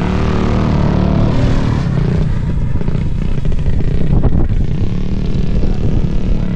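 Mini bike engines running, their pitch rising and falling.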